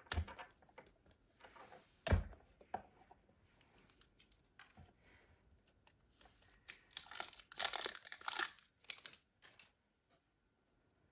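Plastic wrapping crinkling and tearing as a toy surprise egg is opened, with two sharp knocks, one near the start and one about two seconds in, and a longer burst of crinkling in the second half.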